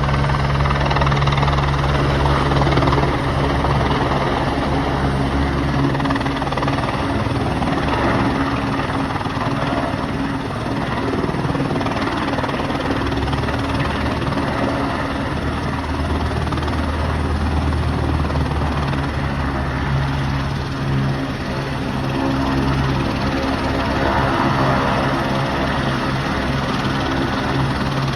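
Airbus AS350 Esquilo single-engine helicopter running steadily, its low rotor tones and engine noise holding at a fairly even level throughout.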